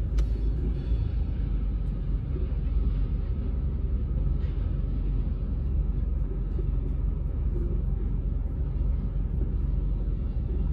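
Freight train of tank cars rolling past at close range: a steady low rumble of wheels on the rails.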